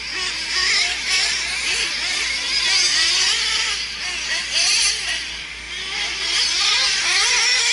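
Several nitro RC trucks racing, their small two-stroke glow-fuel engines screaming at high pitch, each rising and falling as the trucks accelerate and back off around the track.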